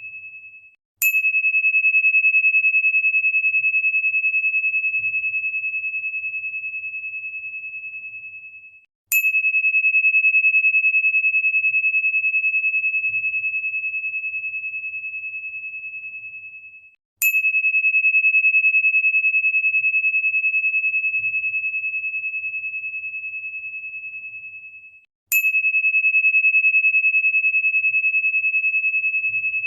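A single high, pure chime tone struck four times, evenly about eight seconds apart; each strike rings on and fades away just before the next.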